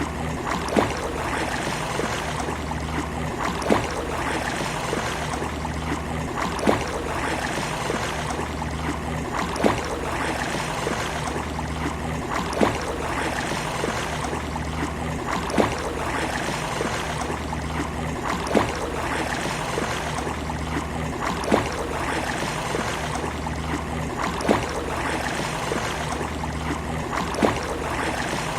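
Steady wash of sea waves, with a sharp tap that repeats evenly about every three seconds over a pulsing low rumble.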